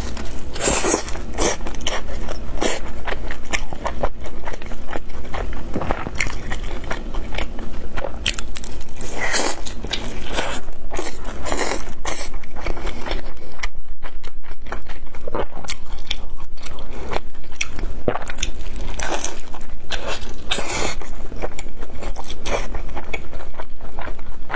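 Close-miked biting and chewing of a pan-fried Chinese chive pocket, with a steady stream of irregular crunches and crackles from the fried wrapper.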